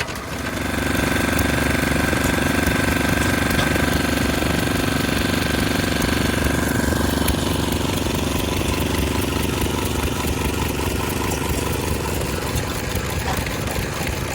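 An engine running steadily with a rapid low beat. A high steady whine with it drops in pitch and fades out about seven seconds in.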